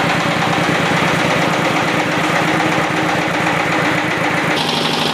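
ZS1115 single-cylinder diesel engine running steadily after its rebuild, with a fast, even pulsing beat. Near the end a higher hiss joins in.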